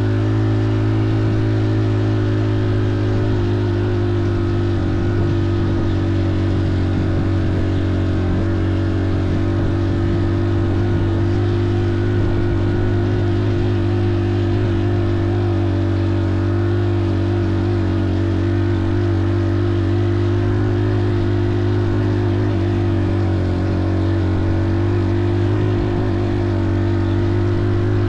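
An engine running steadily with an unchanging drone at constant pitch.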